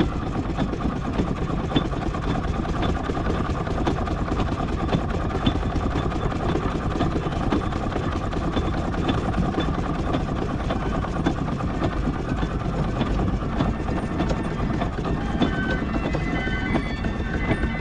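Miniature steam traction engine running steadily as it crawls along in bottom gear, a continuous dense mechanical clatter. A few short high-pitched notes come in near the end.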